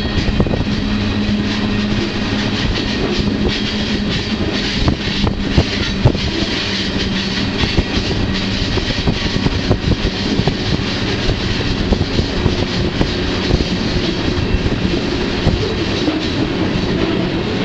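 Riding noise of a moving freight train: cars rattling and clanking over the track, with many sharp clicks and knocks from the wheels and a steady low hum underneath.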